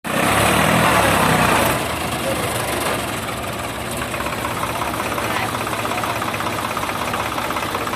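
Diesel engine running steadily with a fast even firing pulse, louder for the first couple of seconds before settling to a steady level.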